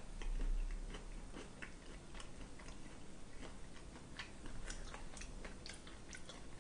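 A person chewing a mouthful of food, faint, with soft irregular clicks.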